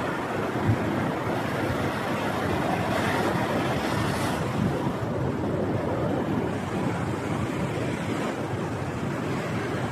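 Ocean surf washing on a beach, with wind buffeting the microphone; the hiss of a wave swells about three seconds in and eases a second or so later.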